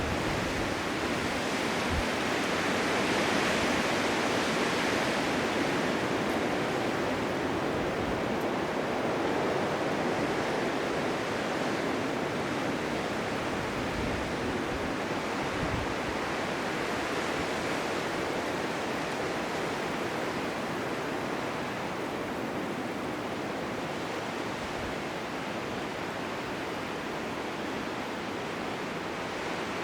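Blizzard wind: a steady, even rushing hiss with a low rumble beneath, swelling slightly a few seconds in and then easing a little.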